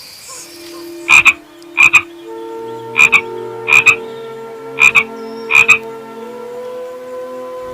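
A frog calling: six short croaks, each a quick double pulse, coming about once a second.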